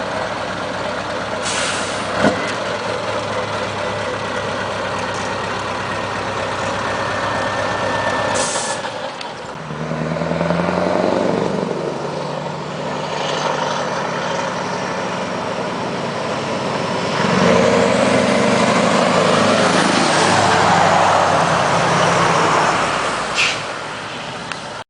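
Scania R500 V8 diesel truck engine idling steadily, with short sharp air hisses from the air brakes, then rising in revs twice, the second time louder and longer.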